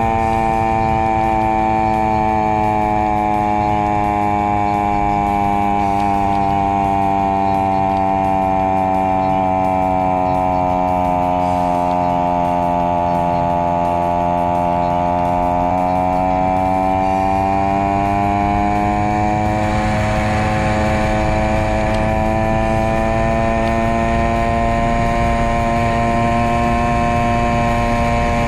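Honda Monkey's small four-stroke single-cylinder engine running steadily under load on a mountain climb, heard from on the bike and sped up to double speed. Its note sags slowly around the middle, then rises again near the end.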